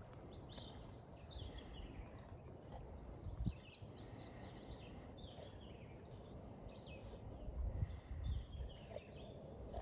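Several birds chirping, short falling notes repeating throughout, over a low rumble with a few dull thumps, the loudest about 3.5 s and 8 s in.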